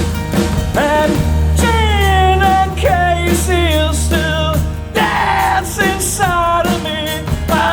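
Live punk rock band playing a song: drum kit hits in the first second, then electric guitars and a melody line over a held bass note.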